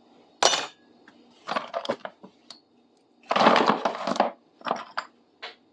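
Metal hand tools clinking and clattering as they are rummaged out of a bucket and set down: a sharp clank about half a second in, a few clinks, a longer rattle of rummaging around the middle, then a few light clicks.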